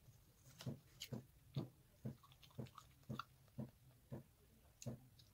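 A person chewing fried chicken: quiet, regular chews about two a second.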